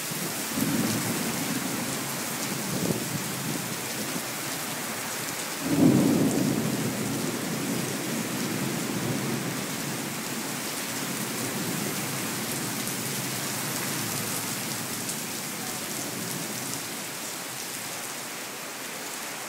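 Steady rain hiss with thunder rumbling: a low rumble about a second in, then a louder crack of thunder about six seconds in that rolls on and fades over several seconds.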